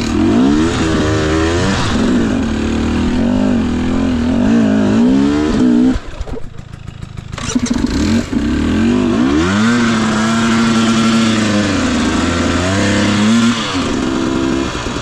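2021 Husqvarna TE250i two-stroke dirt bike engine revving up and down under load, its pitch rising and falling over and over. About six seconds in the revs drop away for a second and a half, then pick up again.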